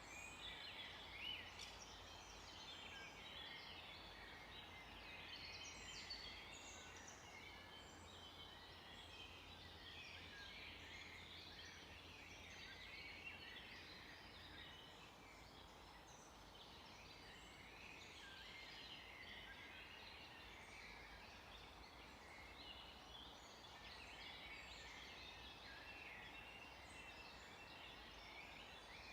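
Faint chorus of many songbirds singing at once: dense, overlapping short high chirps and trills.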